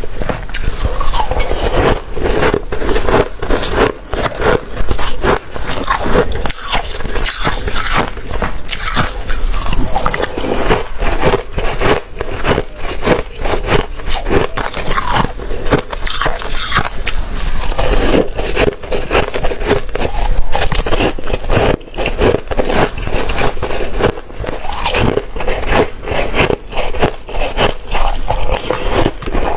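Close-miked biting and chewing of watery, slushy ice: a steady run of wet, crackling crunches, one closely after another, with no pause.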